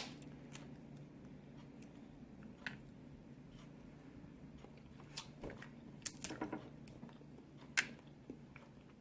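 A person eating close to the microphone: a sharp tap at the start, then quiet chewing with scattered soft mouth clicks and smacks.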